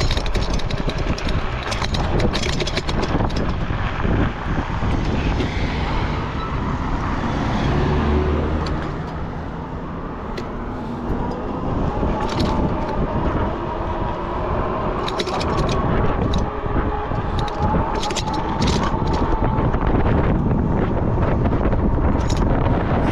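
Riding noise from a moving e-bike: steady wind and road rush on the microphone, with frequent clicks and rattles from the bike. A faint thin whine can be heard for a while in the second half.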